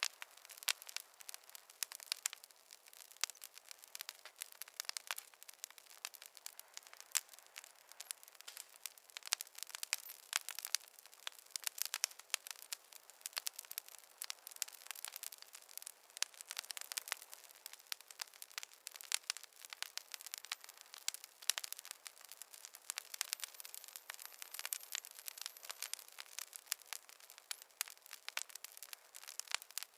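Wood fire crackling: dense, irregular pops and snaps over a faint hiss, with no low rumble.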